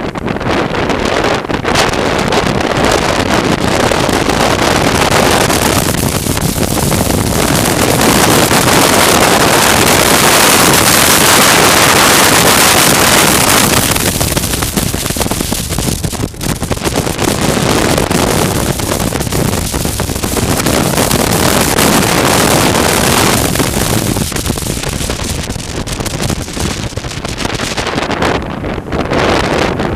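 Wind rushing over the microphone of a motorcycle riding at speed, with vehicle noise underneath. The rush swells loudest about ten seconds in, then eases and rises again.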